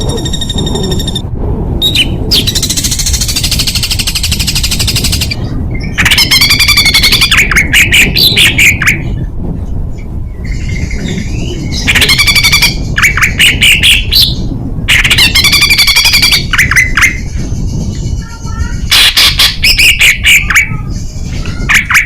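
Songbird singing a harsh, dense song in repeated phrases of very rapid-fire notes ('tembakan') mixed with warbling notes, each phrase one to three seconds long with short pauses between, over a steady low rumble.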